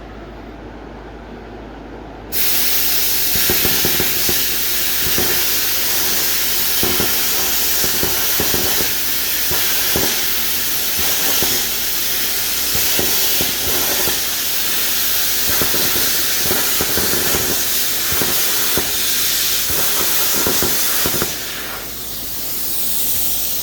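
Plasma cutter cutting metal: a loud steady hiss from the torch that starts abruptly about two seconds in, with irregular crackling throughout. Near the end it drops to a quieter hiss.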